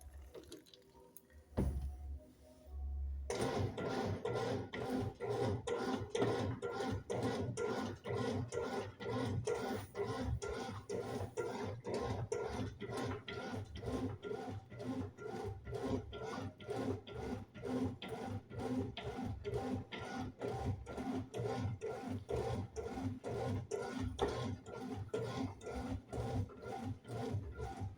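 BWM08 washing machine agitating a load with a duvet in it, a quick, even churning rhythm of a few strokes a second that starts about three seconds in, after a single knock.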